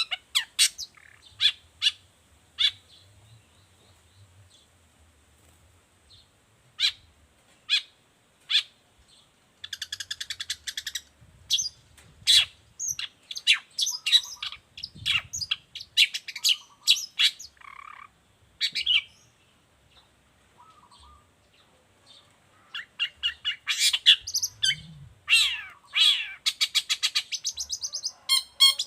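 Long-tailed shrike singing: scattered sharp notes and quick chattering runs with short pauses, busiest in the last few seconds.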